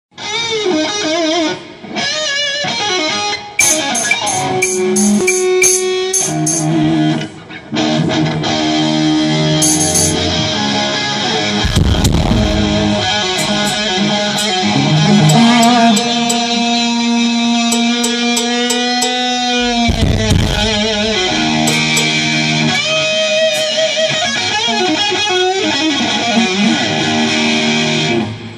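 Electric guitar played through an amplifier at a sound check: riffs and chords, then a long held note that wavers in pitch. Two deep low booms come about twelve and twenty seconds in.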